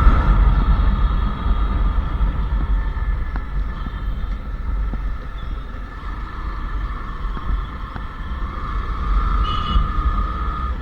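Royal Enfield Classic 350 Reborn's single-cylinder engine running while riding, with wind on the microphone; the engine note eases off in the middle and builds again near the end.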